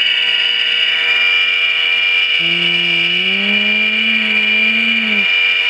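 The sound decoder of an HO-scale Proto 2000 RS-10 model diesel sounds its horn in one long steady blast through its small speaker. About halfway through, the engine sound rises in pitch as if revving up, then drops away near the end.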